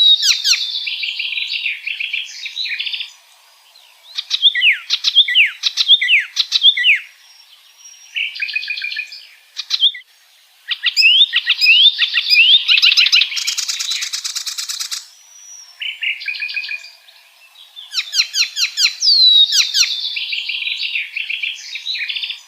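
Icterine warbler singing: phrases of fast, varied chattering and whistled notes, separated by short pauses. About two-thirds of the way through, one phrase ends in a harsh buzzy rattle.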